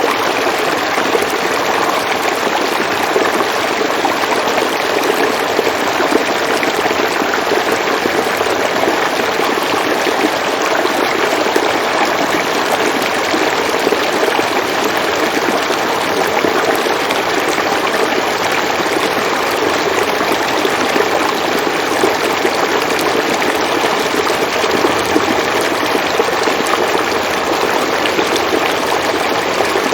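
River water flowing steadily, a continuous even rushing and babbling with no breaks.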